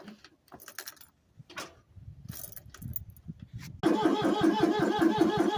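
A few faint clicks, then about four seconds in a cold diesel engine suddenly turns over with a steady, rhythmic pulsing whine on a cold start.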